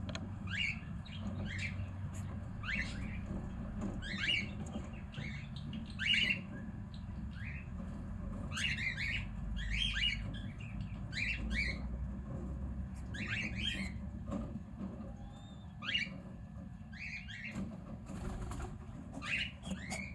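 Cockatiels chirping: short sharp calls, singly or in quick pairs, about every second or two, over a steady low rumble.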